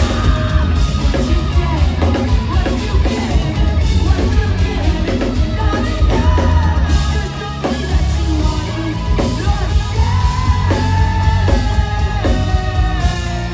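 A rock band playing live and loud: a singer's voice over a pounding drum kit and bass, recorded on a phone's microphone from the crowd.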